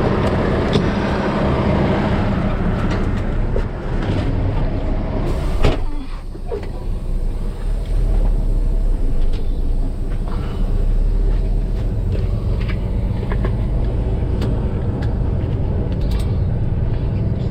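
Log truck engine running steadily, with scattered light clicks and one sharp knock about six seconds in.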